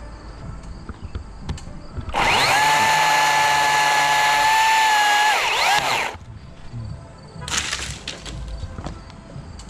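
Battery-powered chainsaw spinning up, running at a steady, high-pitched whine for about four seconds, then winding down. A short, noisy burst follows about a second later.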